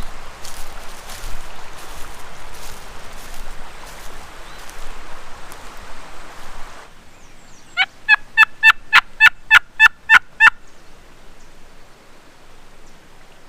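Footsteps rustling through dry leaves, then an abrupt change to a close, loud turkey call: a run of about ten sharp yelping notes, about four a second, used as a locator call to get a gobbler to answer.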